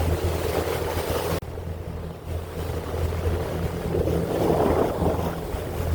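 Boat engine running with a steady low hum, under the rush of water and wind on the microphone. The high hiss drops off abruptly about a second and a half in.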